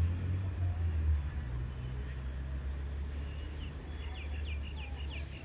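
Double-deck electric passenger train pulling out along the platform, a steady low rumble that eases slightly as it moves away. Near the end a bird gives a quick run of about six short chirps.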